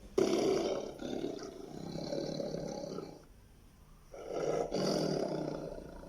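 Tiger roaring twice: a long roar lasting about three seconds, then after a short pause a second roar about four seconds in.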